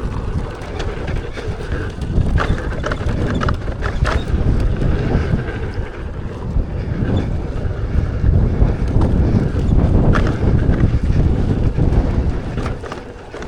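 Wind buffeting the microphone of a rider on an off-road electric unicycle, a steady rumble, with a few sharp knocks and clatters as the wheel rolls over rough dirt trail.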